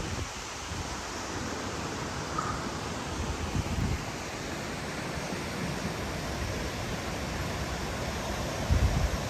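Waterfall rushing steadily, a dense even roar of falling water. Two brief low rumbles on the microphone break in, about three and a half seconds in and near the end.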